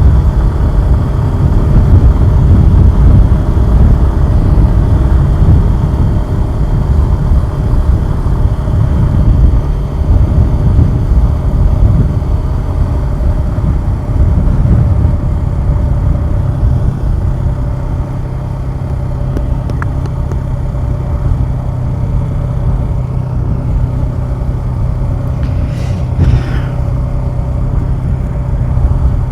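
Suzuki Gixxer 150SF's single-cylinder engine running under way with heavy wind rumble, settling a little past halfway into a steadier, quieter idle-like note. A brief high-pitched squeak sounds near the end.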